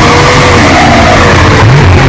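Car engine revving hard, loud enough to overload the recording, with its pitch gliding up and down.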